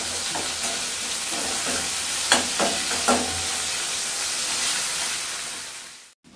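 Ginger paste and tomato pieces sizzling in hot oil in a stainless steel pan, being fried to cook off the paste's raw smell, while a metal slotted spatula stirs and scrapes, striking the pan sharply a few times in the middle. The sizzle fades away near the end.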